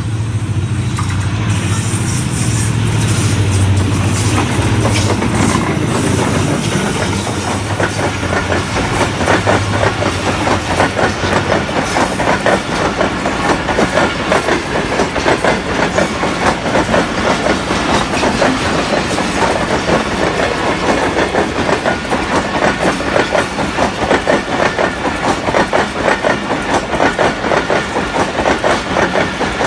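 Diesel locomotive ZCU-30 passing close by with a loud, low engine drone for the first several seconds. The train's coaches follow, their wheels clattering rapidly and evenly over the rail joints.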